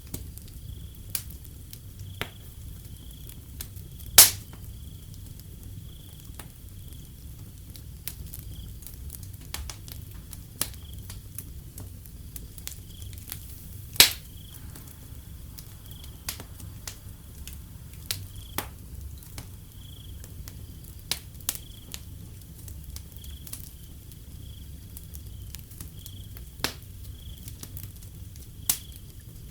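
Wood fire crackling with scattered sharp pops, the two loudest about four and fourteen seconds in, over a low rumble, while crickets chirp steadily in a high, pulsing trill.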